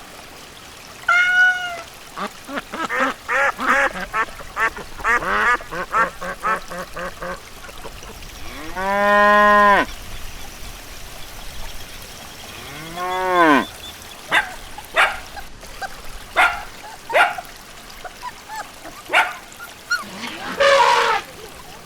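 A string of farm animal calls, one after another: a quick run of short calls, then two long calls that rise and fall in pitch, then scattered short calls.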